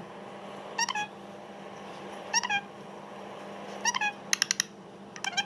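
Short, high-pitched animal calls repeating about once a second, with a quick run of several calls about four seconds in, over a steady low electrical hum.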